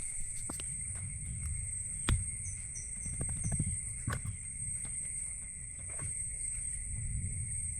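Steady high drone of a rainforest insect chorus, with a low rumble underneath and a few scattered knocks, the sharpest about two seconds in and another about four seconds in. A short run of high chirps comes a little before the middle.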